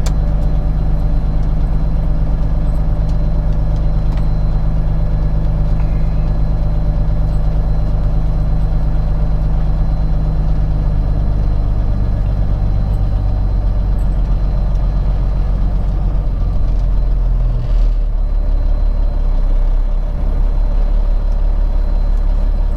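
Peterbilt 379 semi truck's diesel engine running steadily at low speed, its pitch dropping and shifting a few times in the second half.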